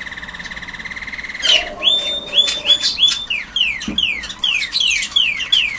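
Canary singing: a fast, even trill for about a second and a half, then a run of falling whistled notes, about three a second.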